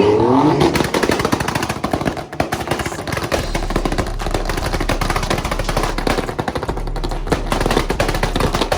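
Two car engines revved hard at the same time, their exhausts giving a dense, rapid popping that runs without a break.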